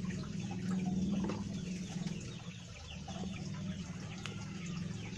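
Chickens clucking and chirping, with many short, high, falling calls, over a steady low hum.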